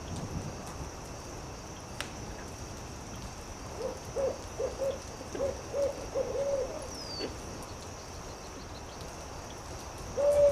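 Owl hooting: a quick run of about eight short hoots in the middle, then one longer hoot that falls in pitch near the end. Under it runs a steady hiss with an occasional sharp click.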